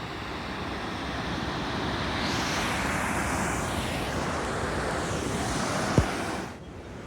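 Steady rushing roar of a waterfall, with one sharp thump about six seconds in; the roar drops off suddenly just after.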